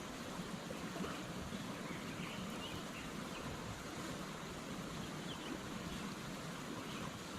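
Steady rushing of a creek's running water.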